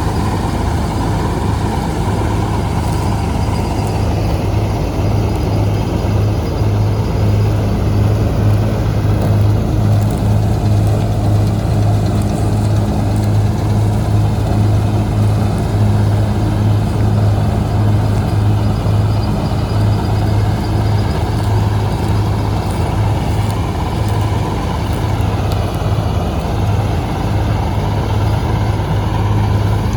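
Preet 987 combine harvester running steadily, a constant heavy engine hum as it cuts wheat.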